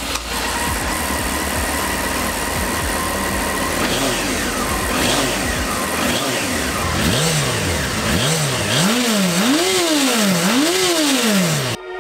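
1992 Honda CBR900RR Fireblade's inline-four engine running on its original exhaust, then revved with a series of about five throttle blips from around seven seconds in, each rev climbing higher and dropping back. The sound cuts off suddenly just before the end.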